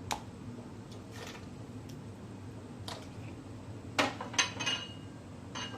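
Pork bones going into a large soup pot: a handful of separate clanks and knocks against the pot. The loudest pair comes about four seconds in, with a brief metallic ring after it.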